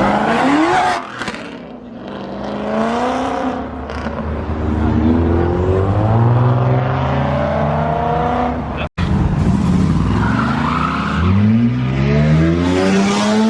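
Cars accelerating hard, their engines revving and rising in pitch as they pull away. About nine seconds in there is a short break, then another car revs up, rising steeply in pitch.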